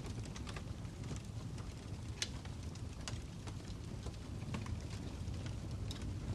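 Fire crackling: a steady low rumble of flames with scattered sharp pops and snaps at irregular intervals, the loudest pop about two seconds in.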